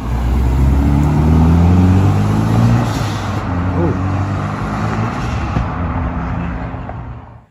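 Mitsubishi Lancer Evolution accelerating hard, its engine running loud at high revs, with the pitch climbing over the first couple of seconds. The sound stops abruptly near the end.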